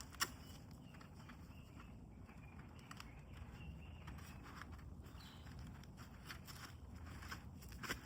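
Faint, scattered small clicks and light rustling outdoors, with a few short high chirps.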